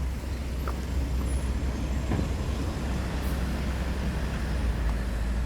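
Road traffic passing on a city street: a steady hum of vehicles with a continuous low rumble.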